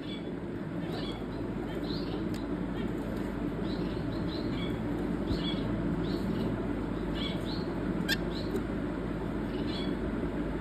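Owl finch (double-barred finch) giving short high calls about once a second, over a steady low background rumble. There is a sharp click about eight seconds in.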